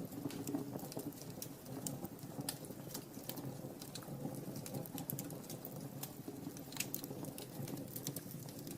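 Wood fire in a fireplace crackling: many sharp, irregular snaps and pops over a low steady rumble of flames.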